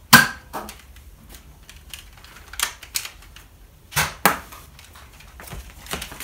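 Nerf foam-dart blasters being worked and fired: several sharp plastic clicks and snaps, mostly in pairs, the loudest right at the start.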